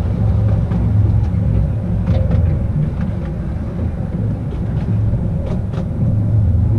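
Narrow-gauge tourist train running along the track: a steady low rumble with a few scattered clicks and rattles.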